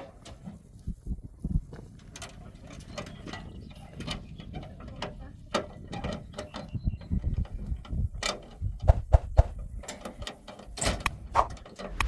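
Irregular clicks, knocks and rustling of things being handled, growing louder with sharper knocks in the second half.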